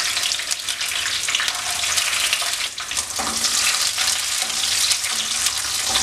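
Cashew nuts sizzling and crackling as they fry in hot ghee in a non-stick wok, stirred with a wooden spatula from about halfway through.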